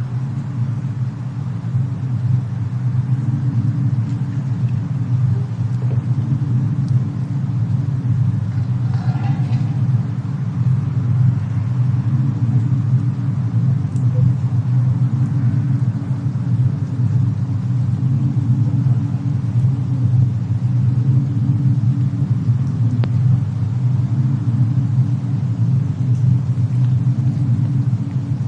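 Steady low rumble of a winter storm-and-fireplace ambience bed, deep and unchanging. A faint click or two sounds above it.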